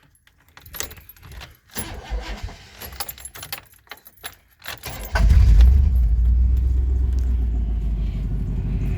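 Keys jangling and clicking in the ignition, then about five seconds in the truck's old 350 V8 catches and runs loud, settling into a steady idle. The exhaust is loud; the owner assumes the mufflers are off or the catalytic converters are cut out.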